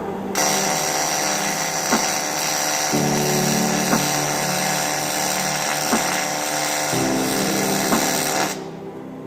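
AC TIG welding arc on aluminium, a steady buzzing hiss with a high whine that starts about half a second in and cuts off about a second before the end, over background music.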